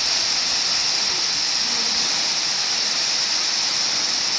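Waterfall crashing down, a steady, unbroken rush of water with a bright hiss.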